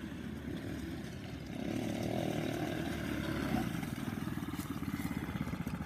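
Small off-road vehicle engine running, growing louder about a second and a half in as the rider comes back closer.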